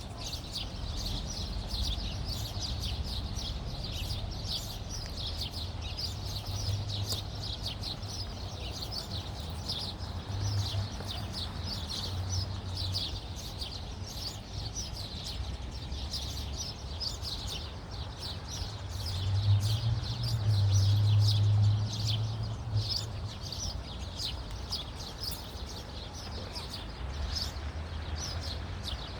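A flock of small birds chirping continuously, many short, rapid, overlapping chirps. A low rumble runs underneath and swells to its loudest about two-thirds of the way through.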